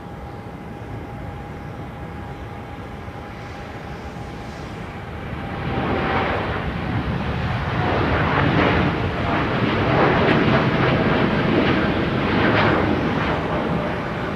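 Boeing 787-8 jet airliner's engines at takeoff power, a steady jet noise that swells sharply about five seconds in and stays loud, with a thin steady whine running under it.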